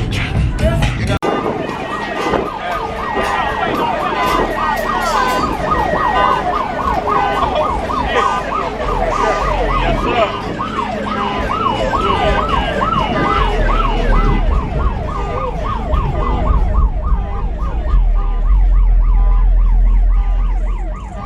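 A siren on a fast yelp, its pitch sweeping rapidly up and down a couple of times a second, starting about a second in. A deep low rumble runs underneath and grows heavier near the end.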